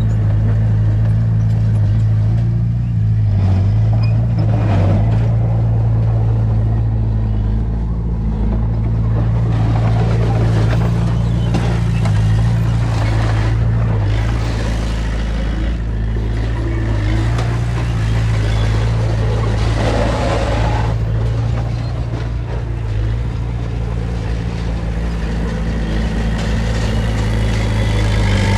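Heavy diesel engine of an earthmoving machine running steadily with a low drone. Swells of rushing noise come and go several times over it.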